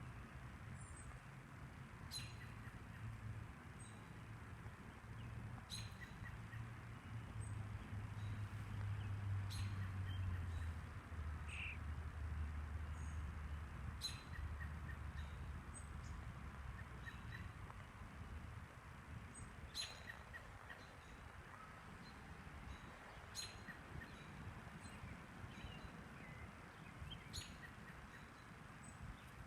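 Short, sharp bird chirps every few seconds, faint, over a low steady drone that drops in pitch about ten seconds in and then fades.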